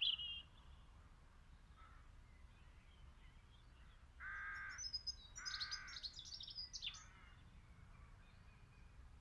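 A bird calls twice, about four and five seconds in, each call lasting under a second, with faint high chirps of small birds around them.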